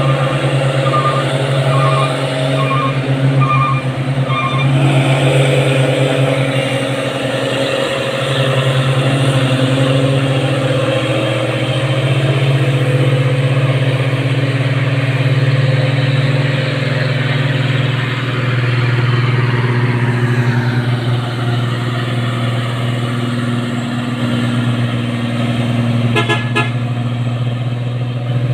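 Heavy truck's diesel engine running steadily on the climb, loud throughout. A string of short high beeps about every half second in the first few seconds.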